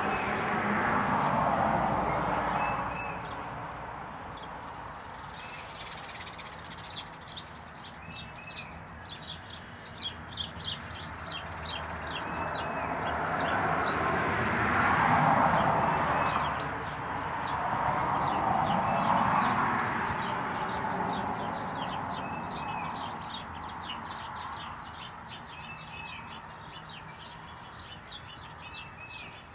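Outdoor birds chirping and calling in quick, repeated short notes, over a rushing noise that swells and fades three times, loudest near the start and twice around the middle.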